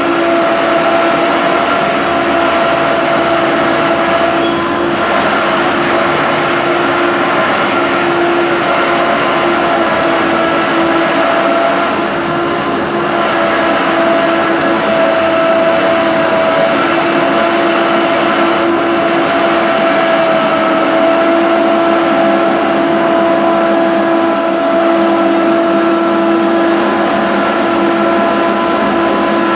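Road-construction machine engine running steadily at a constant speed, with a steady whine over the engine noise.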